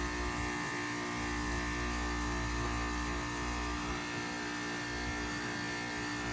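2021 Bryant Legacy Line 2-ton heat pump's outdoor unit running in defrost mode: a steady hum made of several held tones, with a low rumble that comes and goes.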